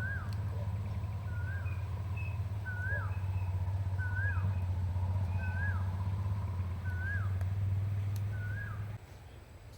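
A bird repeats a short whistled note that rises then falls, about once a second, over a steady low rumble. The rumble cuts off suddenly near the end.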